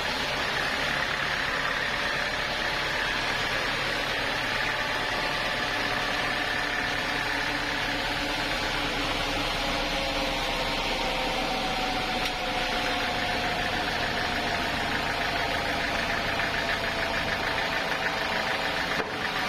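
Sawmill machinery running steadily: a continuous mechanical hum with a faint whine that drifts slowly in pitch.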